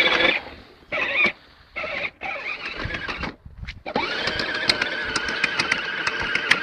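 Vehicle engine revved hard in three short bursts, then held at high revs for a few seconds with a steady whine over it, as the driver floors the throttle.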